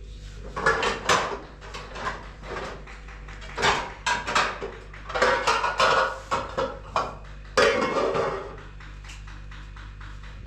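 Hard objects clattering and scraping against each other in irregular bursts, over a steady low hum.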